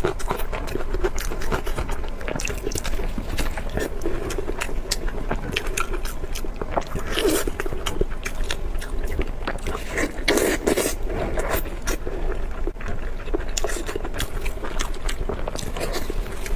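Close-miked eating: chewing and mouth sounds with many small clicks and crackles, over a steady low hum.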